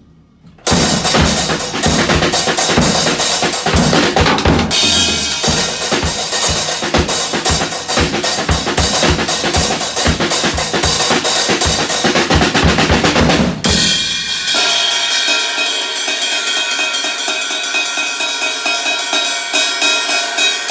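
Acoustic drum kit played hard, with fast snare rolls and bass drum strokes on a worn, loose snare head. About 14 seconds in the drumming stops and cymbals ring on.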